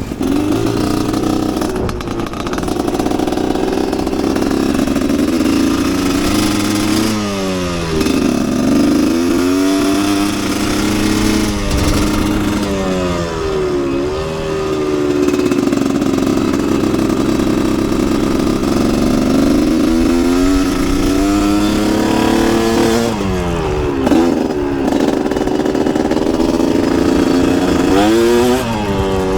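Two-stroke dirt bike engine revving hard while riding. The pitch climbs under throttle and falls sharply over and over, as the rider shifts gears and rolls off into turns.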